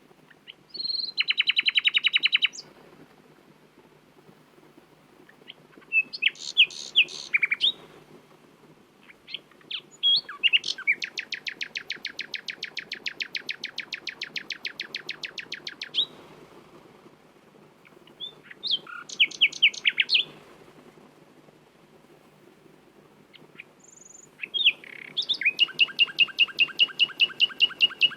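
Nightingale singing: five phrases a couple of seconds apart, each a rapid run of repeated high notes, the longest a fast trill of about six seconds in the middle, and the last still going at the end.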